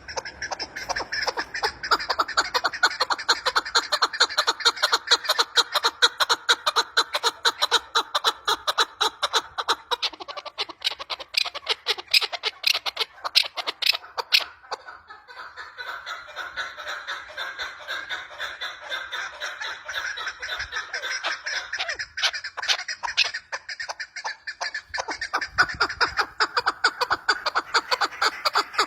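Female chukar partridge calling in a fast, steady run of short repeated notes, several a second. The calls grow softer for a stretch around the middle and then louder again near the end.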